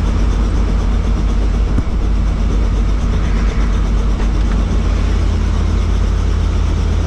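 Helicopter running steadily: a loud, even drone of rotor and engine with a deep, evenly pulsed low end.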